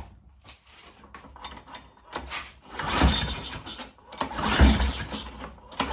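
Petrol lawn mower's recoil pull-start being yanked, the engine cranking over with a mechanical rattle in surges of about a second without catching; the engine has no spark.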